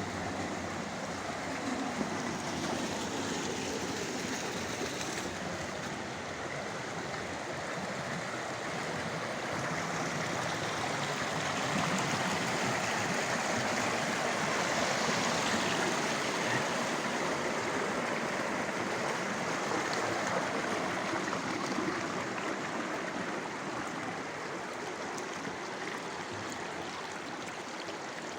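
Rushing water: a steady, even noise that grows a little louder in the middle and eases towards the end.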